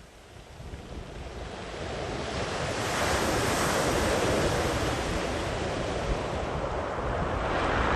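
Sea waves breaking on a beach: the surf swells from a lull into a broad wash of breaking water about three seconds in, holds, and surges again near the end.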